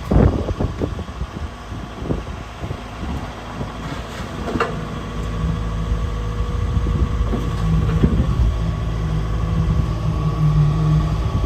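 Volvo EW140D wheeled excavator's diesel engine running, with a few knocks in the first second and a single sharp clank about four and a half seconds in. The engine note grows steadier and louder in the second half.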